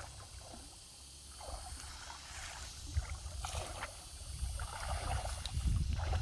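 Water sloshing and splashing in a shallow stream as someone wades and works in it, with a couple of sharper splashes about three seconds in, over a low rumble.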